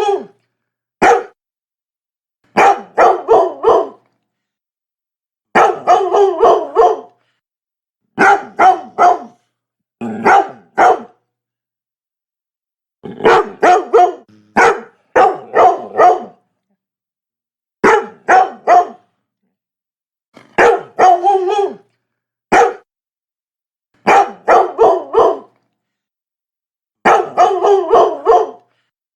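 Labrador barking in quick volleys of three to five loud barks, each volley lasting about a second and separated by silent gaps of a second or two.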